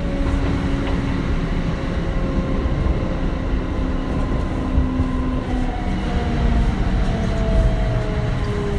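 Kintetsu 1420 series train running, its Mitsubishi GTO-VVVF inverter and traction motors giving a steady whine over wheel and rail rumble. From about halfway through, the inverter tones fall in pitch as the train slows into a station.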